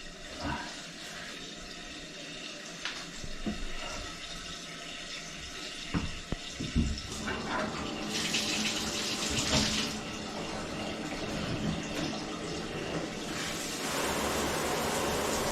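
Toilet tank refilling through its fill valve: a steady hiss of water running in, growing louder near the end, with a few light knocks.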